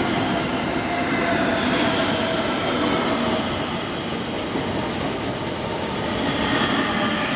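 Modern passenger multiple-unit train running past close by at speed: a steady rumble of wheels on rail with faint high whines that drift slightly in pitch.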